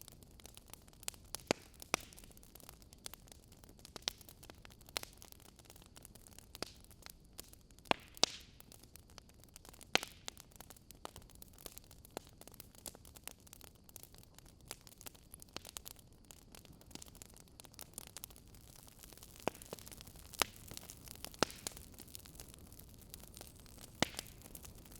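Wood fire burning: a low steady hiss with irregular crackles and sharp pops from the logs.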